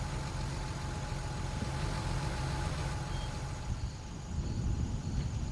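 Truck engine running with a steady low rumble, along with vehicle noise.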